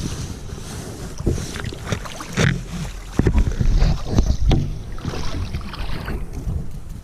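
Wind rumbling on the microphone over the rush of creek water, with several sharp knocks and splashes in the middle.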